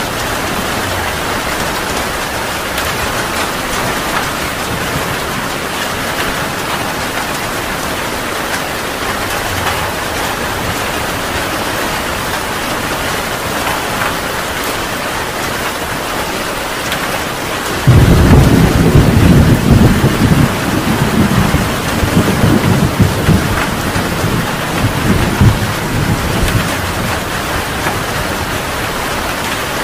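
Heavy rain falling steadily. About two-thirds of the way through, a loud thunderclap breaks in suddenly and rumbles on with crackling peaks for several seconds before dying back under the rain.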